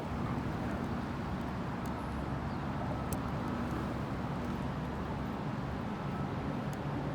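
Steady low rumble and hum of harbour ambience heard from a ship's balcony, with a faint click about three seconds in.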